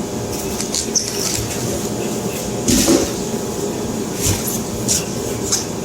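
Clatter and scraping of stove-kit parts being worked loose from their cardboard box, with scattered clicks and a louder scraping knock about three seconds in, over a steady background hum.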